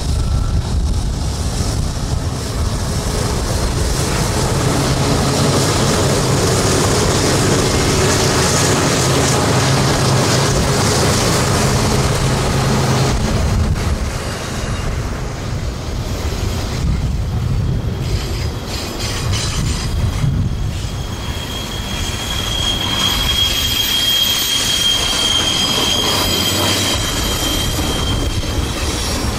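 Freight train rolling past on a curve: a low drone of diesel locomotive engines in the first half, then steel wheels squealing against the curved rail, a high steady squeal in the last third.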